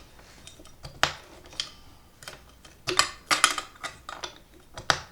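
A string of light, irregular clicks and clatters as a stitch cam is handled and worked onto its spindle in a Kenmore 158.19311 sewing machine, with the cam follower held back. The clicks bunch up a few times, most closely around the middle.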